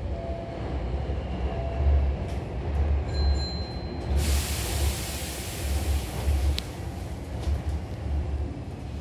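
Hankyu commuter train running, heard from inside the carriage by the closed doors: a low rumble that swells and fades unevenly. A steady hiss comes in suddenly about four seconds in.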